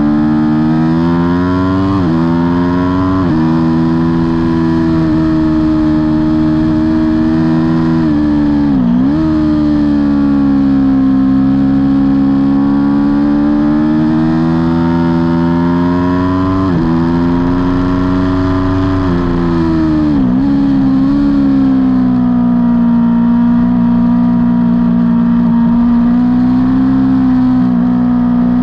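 Aprilia Tuono V4's V4 engine under hard riding, heard on board at high revs. Its pitch climbs and falls through the gears, with several quick dips and recoveries at the gear changes.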